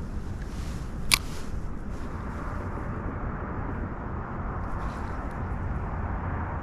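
Wind rumbling on the microphone, with one sharp click about a second in.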